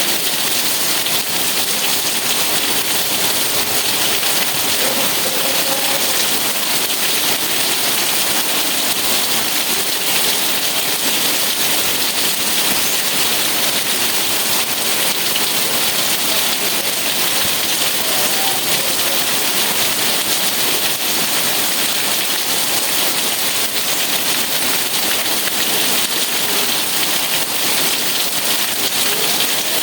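Steady rain falling and pattering on surfaces, an even hiss that keeps up without letting off.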